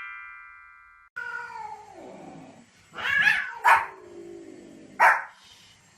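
Dog vocalizing: a drawn-out falling whine, then three short, sharp barks. A ringing tone fades out in the first second before it.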